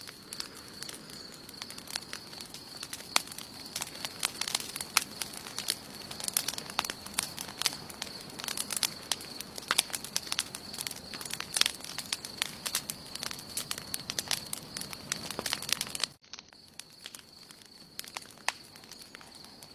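Wood campfire burning with dense sharp crackling; about sixteen seconds in the sound drops abruptly and the crackles become sparser and quieter. A steady high-pitched whine runs throughout.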